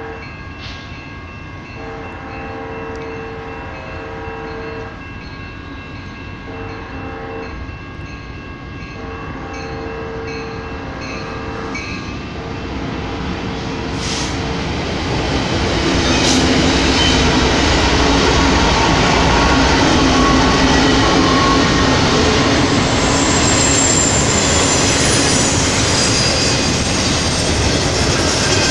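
Diesel freight locomotive's air horn sounding a series of blasts as the train approaches. About fifteen seconds in, the lead locomotives' engines pass close by, and the double-stack container cars follow with a steady, loud rumble of wheels on rail and a faint high squeal near the end.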